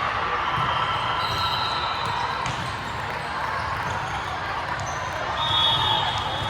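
Gym sound during an indoor volleyball match: the ball being hit and bouncing, short high squeaks from shoes on the court, and a background of crowd chatter echoing in the hall.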